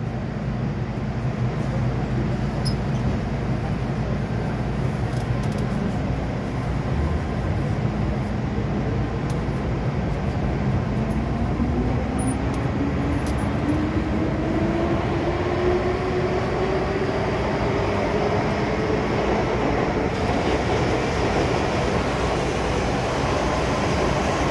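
MTR M-Train electric multiple unit running over the track with a steady rumble; about halfway through, its traction motors start a whine that rises steadily in pitch as the train gathers speed.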